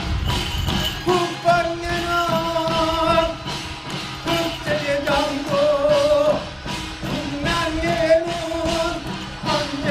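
Korean shaman ritual music: a held, wavering melody line over steady, quick percussion strokes.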